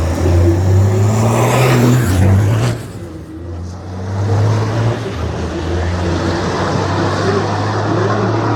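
Diesel racing prime mover (Australian Super Truck) launching hard off the drag start, its engine note rising under full throttle. The sound drops away sharply about three seconds in as the truck pulls away down the strip, and a steadier engine drone carries on after that.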